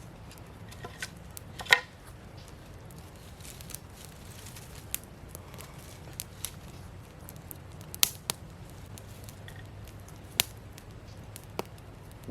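Scattered sharp knocks and clicks, the loudest about two seconds in, with a few more later, over a low steady background hum.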